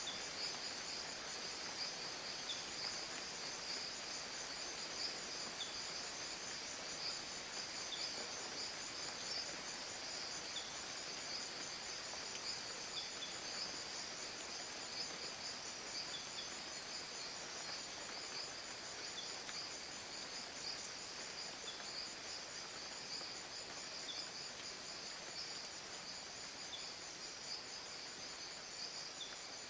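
Rainforest ambience: a steady, high-pitched insect chorus, with a short faint chirp repeating every two to three seconds.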